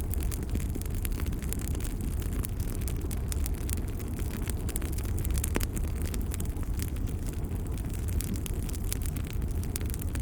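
Wood fire burning in a fireplace: a steady low rumble of the flames with scattered crackles and pops, one sharper pop about halfway through.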